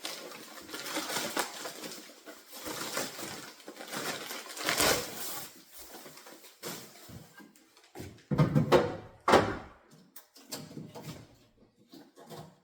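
Packaging being handled while a new refrigerator is unpacked: irregular rustling and scraping, with a few heavier thumps about eight to nine seconds in.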